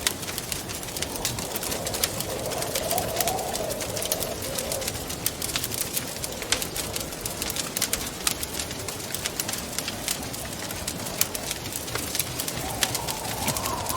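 Wood fire crackling with frequent sharp pops over a steady hiss, while wind howls in slow gusts whose pitch wavers up and down, swelling about two seconds in and again near the end.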